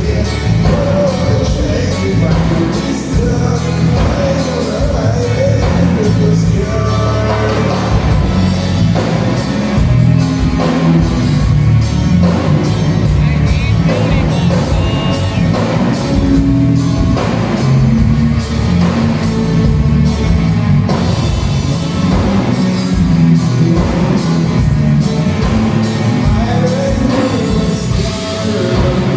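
Loud live band music with a singer, carried by a strong bass line and steady drums.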